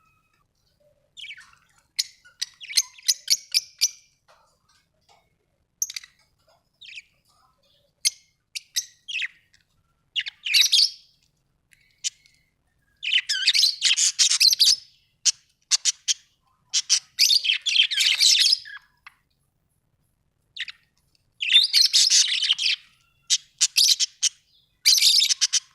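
Budgerigars chirping in short, scattered calls, breaking several times into longer bouts of fast warbling chatter.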